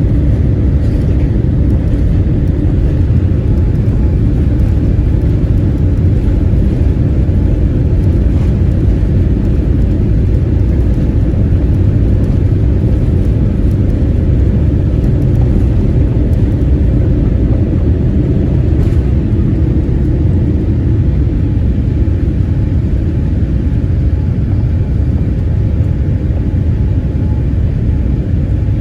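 Steady, loud, low rumble of a Boeing 787-8 airliner's jet engines and airflow, heard from inside the passenger cabin.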